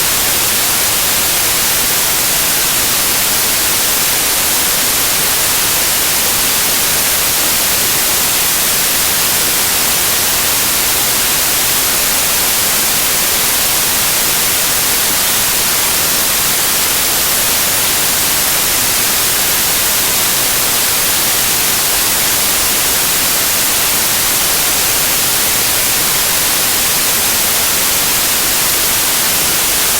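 Loud, steady white noise: an even hiss that never changes, brightest in the high pitches.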